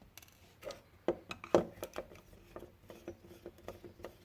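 Small Phillips screwdriver working the tiny screws out of a Runcam 2 camera's plastic housing: a run of irregular light clicks and scrapes, the loudest about a second and a half in.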